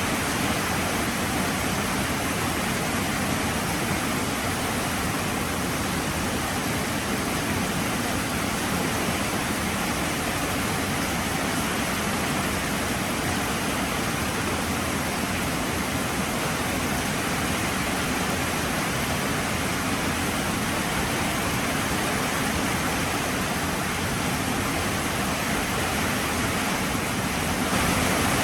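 Heavy rain falling in a steady, dense hiss, stepping up slightly in loudness just before the end.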